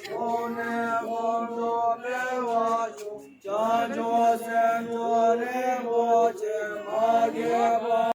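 A group of men chanting a patriotic chant in unison, in long drawn-out sung phrases, with a short break about three seconds in.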